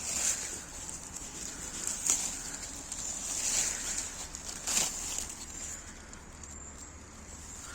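Outdoor forest ambience: a thin, steady high-pitched chirring runs throughout. Brief rustling crunches come about a second in, around two seconds and near five seconds.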